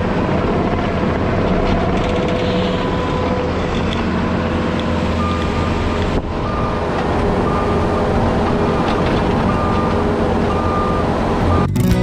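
Heavy-equipment diesel engine running steadily under load while the machine backs up. From about the middle on, its backup alarm beeps repeatedly, about one beep every two-thirds of a second. Music comes in at the very end.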